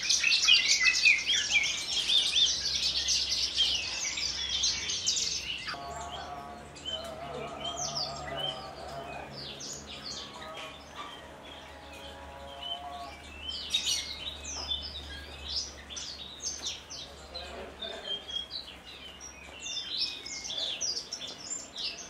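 Javan bush lark singing a rapid, varied, high-pitched song. It is loudest in the first five seconds, then goes on as quieter scattered chirps and trills. A faint low hum runs underneath through the middle.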